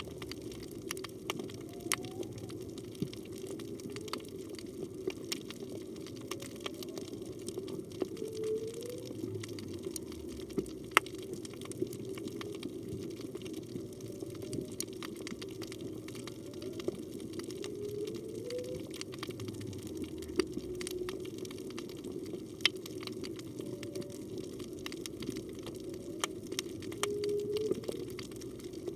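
Whale song heard underwater: short calls that glide up in pitch, repeating every few seconds, with a few lower swooping calls between them. The recordist takes it for humpback whale song. Beneath it is a steady water hiss with many scattered sharp clicks.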